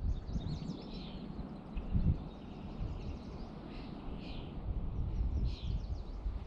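Birds chirping in short clusters of calls, three of them standing out, over a steady low rumble. A single knock sounds about two seconds in.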